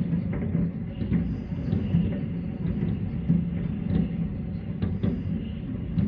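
Fireworks going off in a dense, continuous barrage: overlapping low booms that merge into a steady rumble, with sharper cracks every fraction of a second.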